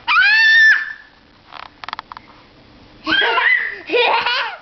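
A toddler's high-pitched shrieks: one long squeal at the start, then a quieter gap, then a run of shorter squeals and squeaky cries about three seconds in.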